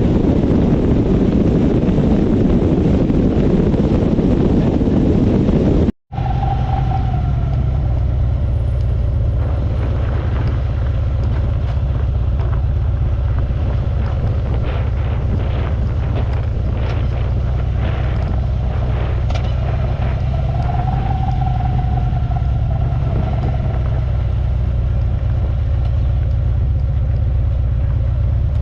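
Motorcycle riding at highway speed: heavy wind buffeting on the microphone, then, after a sudden cut about six seconds in, the engine and road noise as a steady low rumble under lighter wind.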